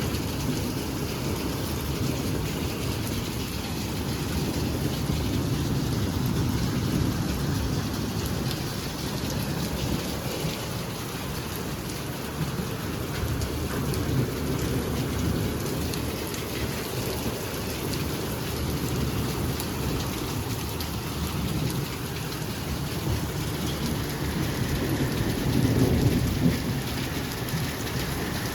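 Steady heavy rain falling, a continuous noise with a deep low rumble in it, swelling louder briefly near the end.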